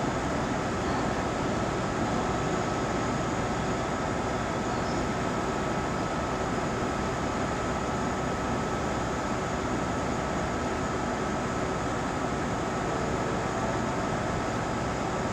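JR East 719 series electric train standing at the station, its onboard equipment giving a steady hum and whir with a thin constant whine.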